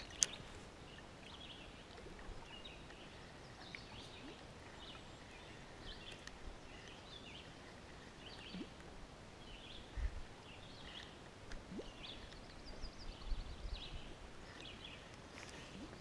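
Faint open-air quiet with small birds chirping now and then, and one sharp click just after the start.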